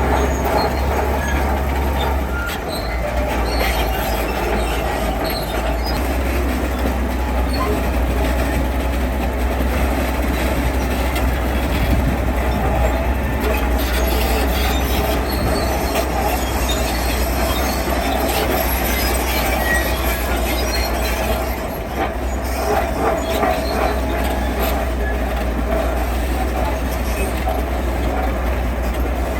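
Heavy earthmoving machinery running steadily: a continuous low engine rumble with a grinding, metallic noise over it.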